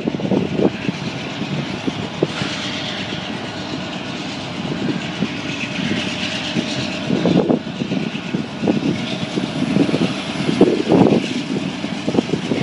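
Freight train led by diesel locomotives approaching on the rails, a steady rumble and hiss of engines and wheels, with irregular low gusts of wind buffeting the microphone.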